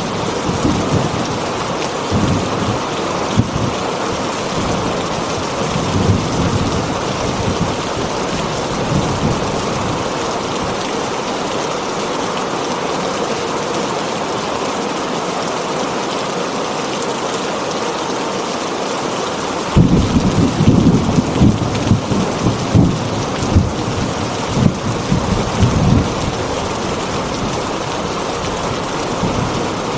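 Heavy rain drumming steadily on a tin roof, with thunder rumbling low at the start and again for several seconds about two-thirds of the way through.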